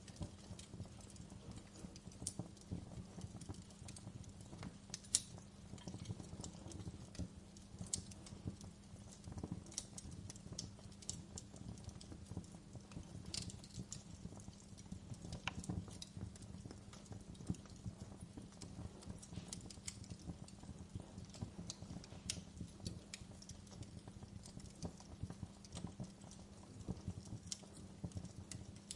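Wood fire in a fireplace crackling, with frequent irregular sharp pops over a low steady rumble of the burning. The loudest pop comes about five seconds in.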